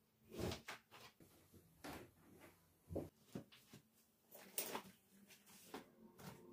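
A series of light knocks and clatters, about eight or nine, spread irregularly with quiet between: household objects being handled and set down.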